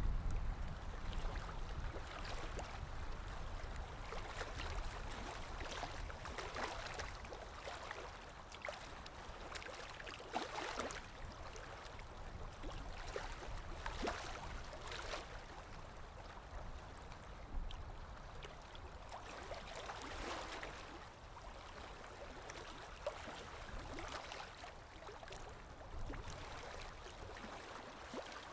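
Stream water running, splashing and gurgling in irregular surges every second or two, over a low rumble.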